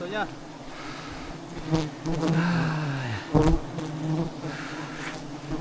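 Swarm of giant honey bees buzzing in a steady drone, with one bee buzzing close by a couple of seconds in, its pitch dropping as it passes. A couple of sharp knocks stand out.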